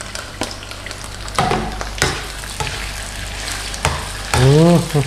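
Raw shrimp, petai beans, onion and chili sizzling in hot oil in a nonstick wok while a spatula stirs them, knocking against the pan a few times. Near the end comes a short, loud hummed sound with a rising-then-falling pitch.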